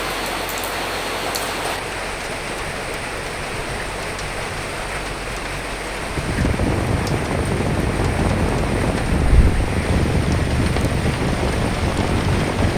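Steady rain pattering, with wind. About six seconds in a low rumble swells up under the rain and peaks a few seconds later.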